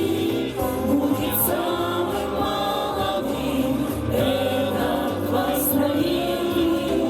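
A song sung by a choir over instrumental accompaniment, with long held sung notes.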